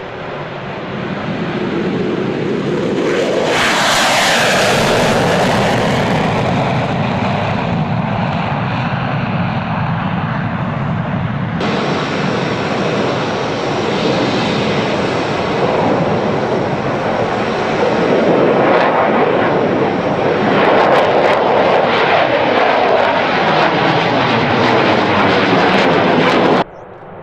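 Fighter jet passing by, loud jet engine noise that swells a few seconds in with a falling pitch sweep as it goes past. The sound changes abruptly partway through to a second pass, loud again in the second half with more falling sweeps, then cuts off suddenly near the end.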